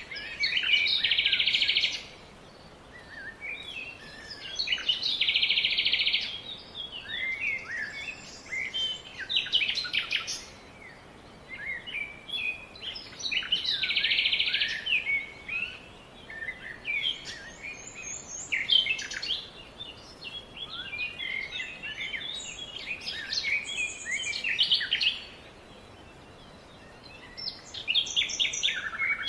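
Several songbirds chirping and calling over one another in quick short notes. A loud, dense trill comes three times in the first half, and there is a lull of a few seconds near the end.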